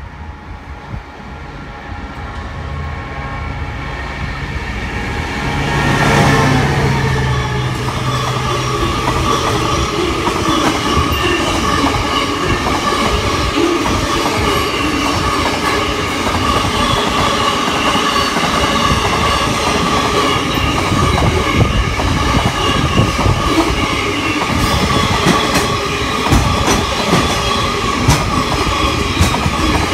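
Container freight train led by a Qube MZ class diesel locomotive, approaching and passing close. The locomotive's engine grows louder and is loudest about six seconds in. After that the long string of loaded container wagons rolls steadily by, rumbling, with wheel clicks over the rail joints that come thicker toward the end.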